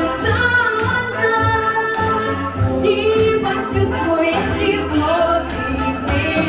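A female singer singing a jazz song over a backing track, holding long sung notes over a steady bass line.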